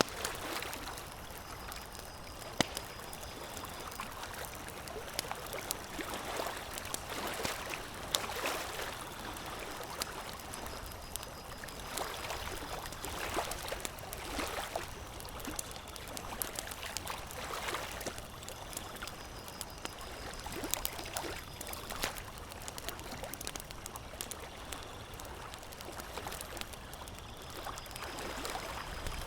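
Campfire crackling, with scattered sharp pops, over lake water lapping in irregular washes.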